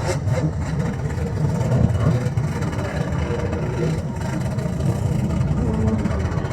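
Jet ski engine running steadily, a rough low rumble with a wavering pitch.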